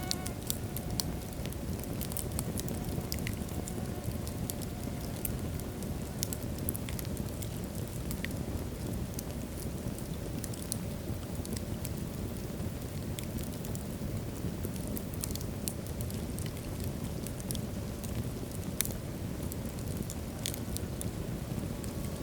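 Wood fire burning in a fireplace: a steady low rumble of flames with frequent sharp crackles and pops from the burning logs, scattered irregularly.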